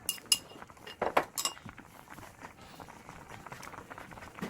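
Dishes and utensils clinking: a few sharp clinks at the start and a louder cluster of knocks about a second in.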